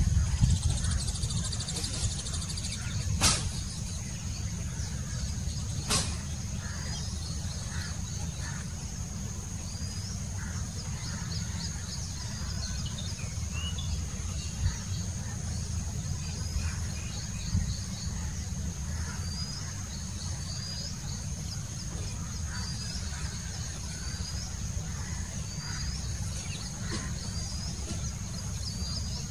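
Bird chirps, short rising notes repeating about once a second, over a steady high-pitched whine and a constant low rumble. Two sharp clicks, about three and six seconds in.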